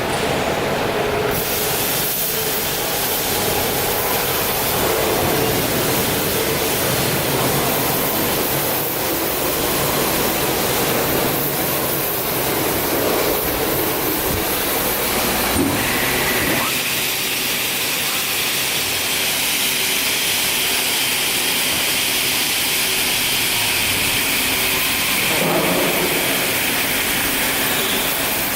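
CNC panel saw running, a loud steady rushing machine noise. About halfway through the sound changes: the low rumble falls away and a high steady whine comes in and holds until near the end.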